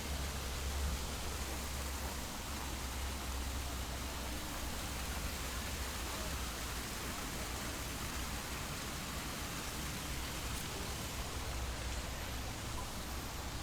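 Steady outdoor hiss with a low rumble underneath that eases off in the second half; no distinct events stand out.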